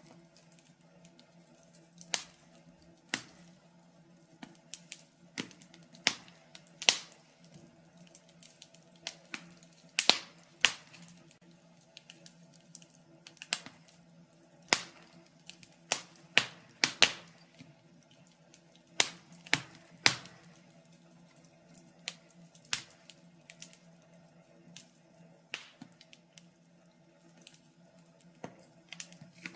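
Wood fire burning in a fireplace, crackling with irregular sharp pops and snaps, roughly one to three a second, several of them loud.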